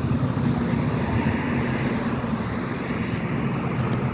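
Steady car engine and road noise heard from inside a moving car, with a low engine hum that fades about halfway through.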